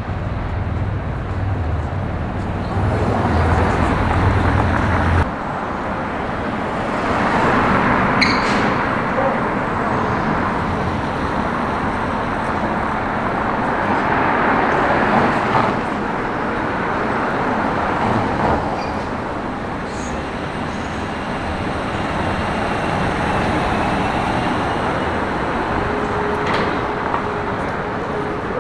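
Street traffic: vehicles passing one after another in swells of tyre and engine noise, with a deep engine rumble that cuts off about five seconds in.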